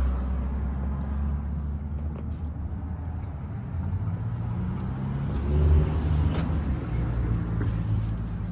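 A motor vehicle engine running, a steady low rumble whose pitch shifts slightly now and then, with a few faint clicks.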